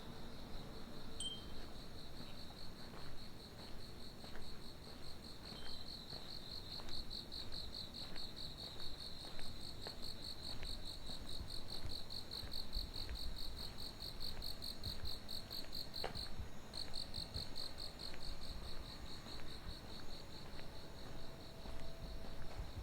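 Cricket singing a steady, high-pitched song of rapid even pulses, which breaks off briefly about two-thirds of the way through and then resumes.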